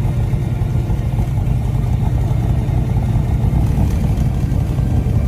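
Car engine running with a steady deep rumble.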